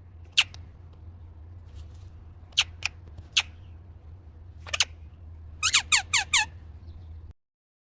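Short, high, bird-like chirps that fall quickly in pitch: scattered singles and pairs, then a quick run of five near the end, over a low steady hum. The sound cuts off abruptly about a second before the end.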